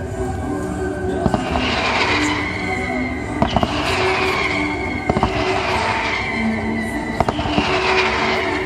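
Fireworks going off with sharp bangs about every two seconds, each near a falling hiss, over the display's orchestral music soundtrack.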